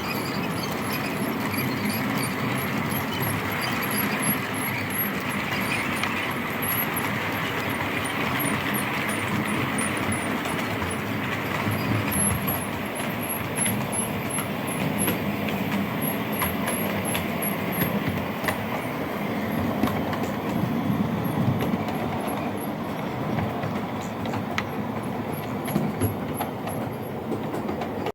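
OO gauge model trains running on the layout track: a steady rumble of wheels and motors with a regular light ticking.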